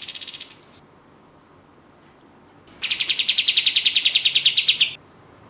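Kapas tembak (katem) bird calling in fast, rattling trills of rapid repeated notes. One trill ends about half a second in, and a longer one of about two seconds starts near the middle.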